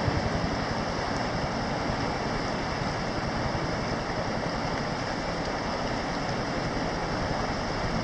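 Rescue helicopter running steadily, its engine and rotor giving an even rush with a fast, fine beat underneath.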